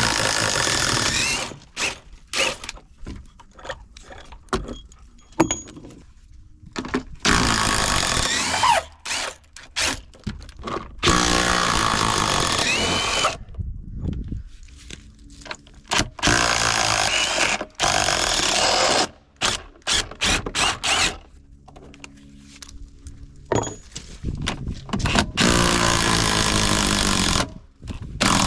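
Handheld power drill running in repeated bursts of one to three seconds, about six times, with short pauses between, the motor pitch rising as each burst starts, typical of driving out fasteners.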